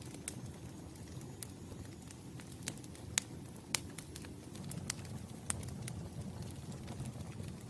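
Campfire burning: a steady low rumble of flames with irregular wood crackles and sharp pops, a few louder snaps in the middle.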